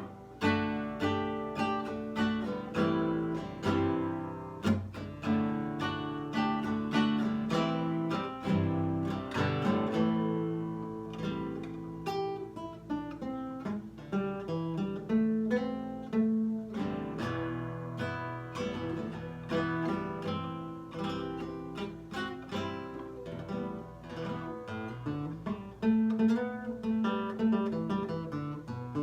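Nylon-string guitar played solo: plucked chords and single notes in a steady rhythm, each one ringing on.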